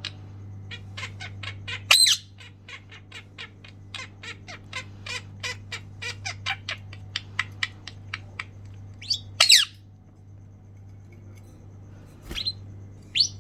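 Pet birds chirping in a quick run of short chirps, about four a second, for most of the first eight seconds, then a few louder, sharper squawks later on.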